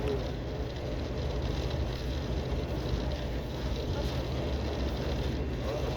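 Passenger train coach running, with a steady low rumble and an even rushing noise.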